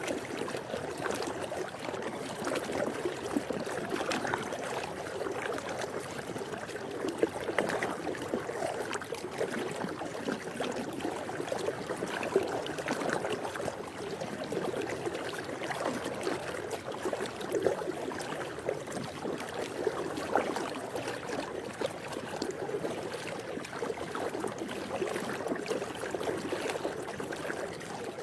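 Swimming-pool water moving steadily, an even wash of water sound with frequent small splashes scattered through it.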